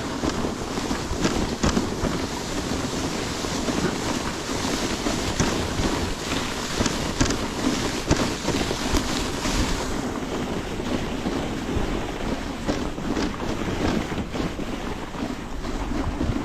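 Dog sled moving along a snowy trail: a steady rush from the runners and wind on the microphone, with frequent knocks and clatters. The high hiss softens about ten seconds in.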